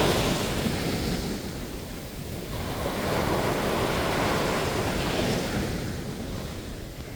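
Ocean waves breaking and washing up on a sandy beach. The surf swells and eases, with one surge at the start and another a few seconds in, and wind noise on the microphone.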